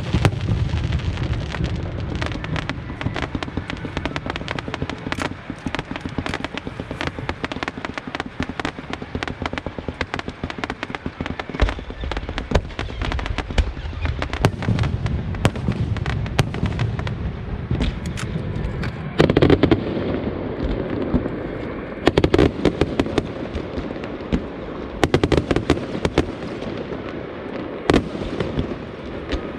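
Aerial fireworks going off in a dense, unbroken crackle of many small bursts, with heavier bangs about twenty seconds in and again every few seconds after.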